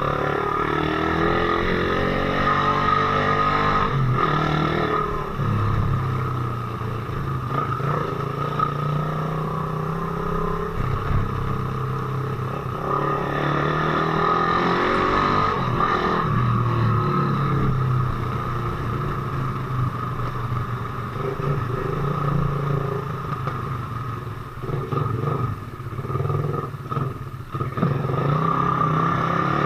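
Suzuki Raider motorcycle engine running while riding, its pitch rising and falling several times as the throttle is opened and eased off.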